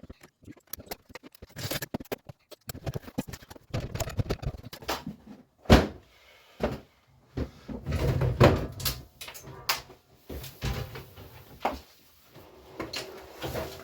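Irregular knocks, clicks and clatter of hand tools and metal parts during work on an old boiler being taken off, with one sharp, loudest knock nearly six seconds in.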